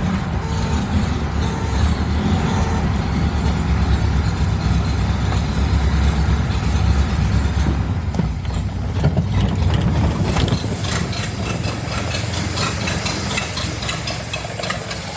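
Truck engine running on a newly fitted electric fuel pump in place of the mechanical one, with a steady low rumble. About ten seconds in the rumble eases and a fast, light ticking and hiss come up.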